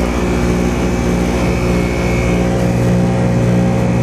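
Goodman heat pump outdoor unit running steadily, compressor hum and fan, with a faint high whine over the first two seconds or so. The unit is running continuously with its outdoor coil iced solid because it has not gone into defrost.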